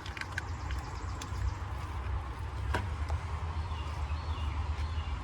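A few sharp clicks and knocks of the manual transmission's shift cable and linkage being worked by hand, the cable end not yet clicking into place, over a steady low rumble.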